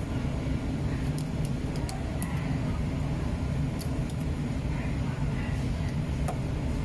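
Microwave tunnel drying machine running: a steady low mechanical hum with a few scattered light clicks.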